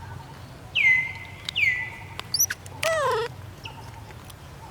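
Macaque calls: two high-pitched squeals about a second apart, each sliding down and then holding a steady pitch, then a few short high chirps and a lower, arching squeal about three seconds in.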